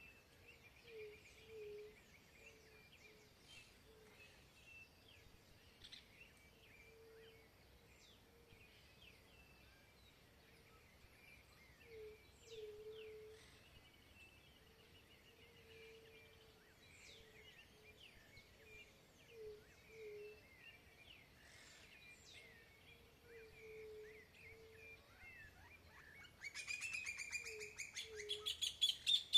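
Birds singing, faint and scattered, with high chirps and short low notes that often come in pairs. About three seconds before the end a much louder bird song starts, a fast run of repeated notes.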